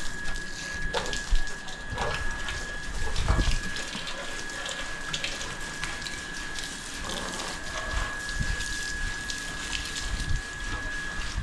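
Water running and splashing, with scattered knocks and a steady high whine.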